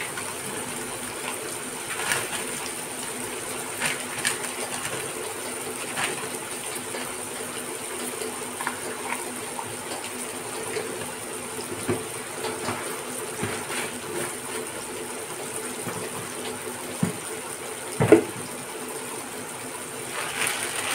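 Diced carrots and tomatoes frying in a kadhai over a gas flame, a steady soft sizzle. A few scattered clicks and knocks come through it, the loudest a sharp knock about 18 seconds in.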